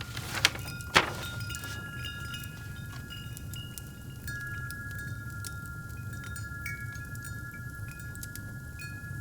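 Wind chimes ringing, several notes overlapping and sustaining, over a crackling fireplace: scattered sharp pops and snaps of burning wood, the two loudest about half a second and a second in, with a steady low rumble beneath.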